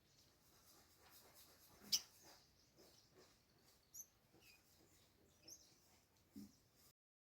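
A few faint, short high chirps from a sunbird, scattered through the middle, over faint background noise. A sharp click about two seconds in is the loudest sound, and a dull low thump comes near the end before the sound cuts off.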